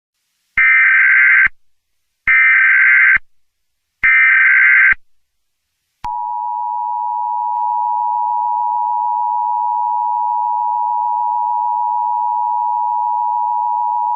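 Emergency Alert System header: three one-second bursts of SAME digital data tones, then, about six seconds in, the steady two-tone EAS attention signal, which marks the start of an emergency alert broadcast.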